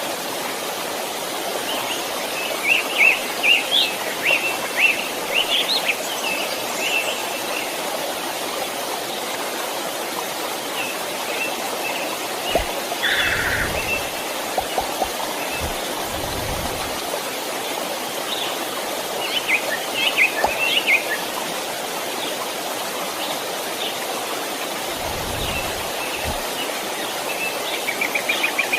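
A small stream flowing steadily, with songbirds chirping in short bursts several times over it. A few soft low thumps come in the middle and again near the end.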